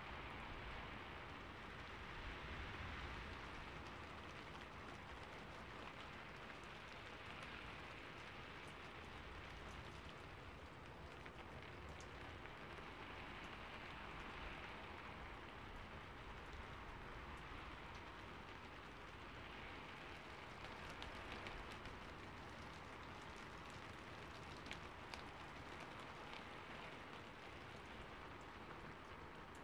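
Recorded rain falling on a rooftop: a faint, steady hiss of rain with scattered sharper drip ticks.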